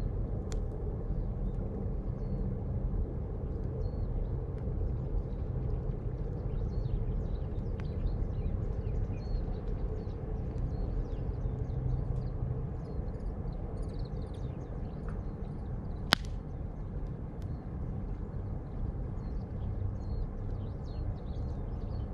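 Steady low rumble of wind and movement noise on the camera microphone, with small birds chirping in short calls throughout and one sharp click about 16 seconds in.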